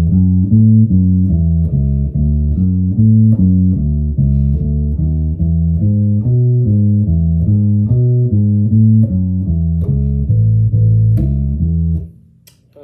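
Birdsong Hy5 five-string passive bass played through an amp on the neck pickup with the tone control rolled fully off: a steady riff of plucked notes, about three a second, dark with almost no treble, ending near the end.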